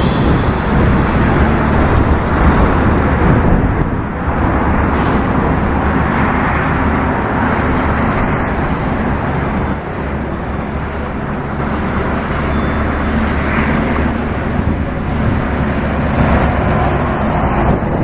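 Highway traffic with trucks and cars passing: a steady engine drone under tyre noise that swells and fades several times as vehicles go by.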